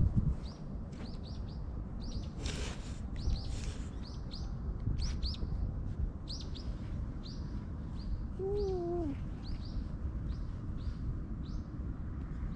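Small birds chirping over and over in short, high, down-sliding chirps, over a steady low rumble. About two-thirds of the way in, a short wavering tone is heard.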